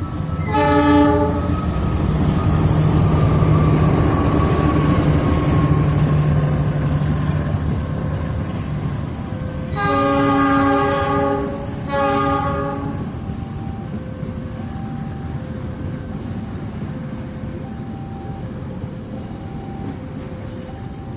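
Diesel locomotive horn blown three times: a short blast about half a second in, a longer one at about ten seconds and a short one right after. Between the blasts there is the rumble of a train running by, with a low engine drone. In the second half a faint two-note signal repeats about once a second.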